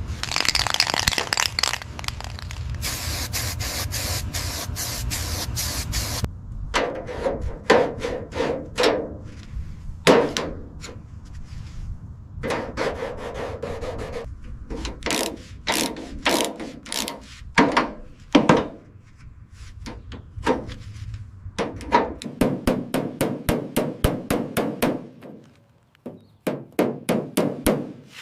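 Hand and power tools at work on car parts. First comes about six seconds of steady rubbing or grinding noise, then scattered sharp knocks and clanks. Later there are runs of quick, even taps, about four or five a second.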